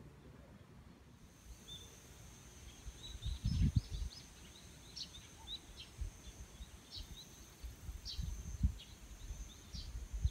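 Quiet outdoor ambience with birds chirping now and then in short, high calls, over a thin steady high tone. Low rumbling bumps on the microphone come and go, loudest about three and a half seconds in.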